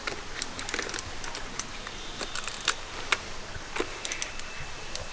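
Irregular small clicks and snaps of a film camera being handled as a used colour roll is swapped for black-and-white film.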